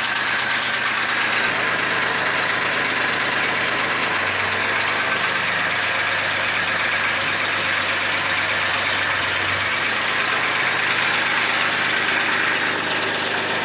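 Old Kubota tractor's diesel engine running steadily.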